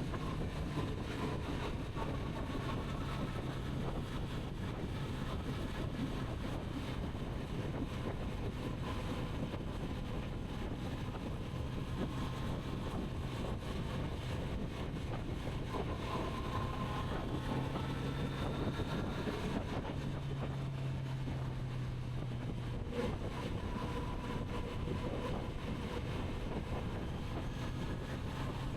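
Kawasaki Z900RS inline-four engine running at a steady cruise, its note shifting slightly in pitch now and then, with wind rushing over the microphone.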